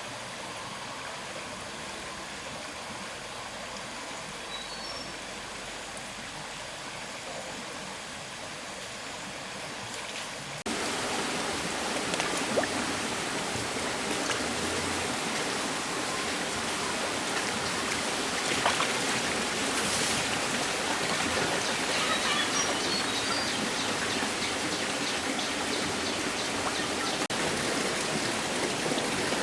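Steady rushing noise of running water, like a forest stream. It jumps louder abruptly about ten seconds in. A few faint, short high chirps sound over it twice.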